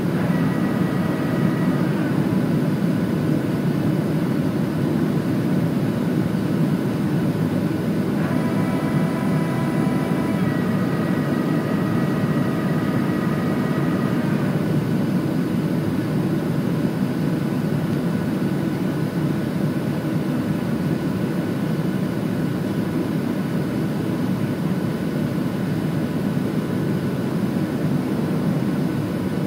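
Cabin noise inside a Boeing 737-700 on its landing approach: a steady rush of airflow and CFM56 jet engines. A higher whine of several steady tones comes in twice, briefly at the start and again for about six seconds near the middle.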